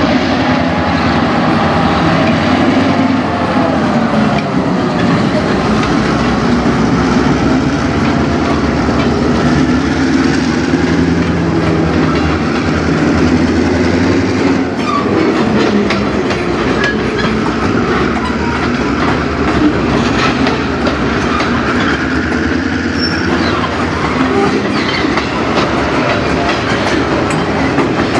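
A pair of EMD GP9 diesel locomotives passing slowly, the low drone of their engines running for roughly the first half, then tank cars rolling by with their wheels clicking over the rail joints.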